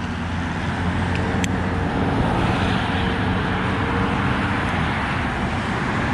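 Motorcycle engine idling steadily, with highway traffic noise around it.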